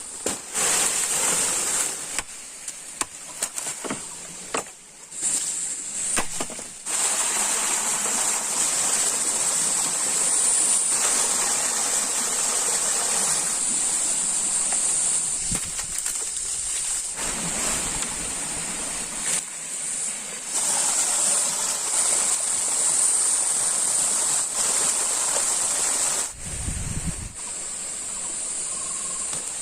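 Outdoor forest ambience of rushing stream water, with a steady high-pitched hiss or drone over it; the sound drops out and jumps back abruptly several times.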